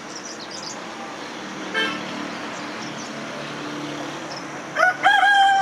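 A rooster crowing near the end: a rising start into a long, loud held note. Before it, faint high chirps of small birds over a steady hiss of outdoor background.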